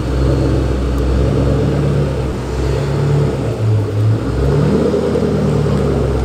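2006 Ford Mustang GT's 4.6-litre three-valve V8 running at low revs, its note dipping and rising a few times.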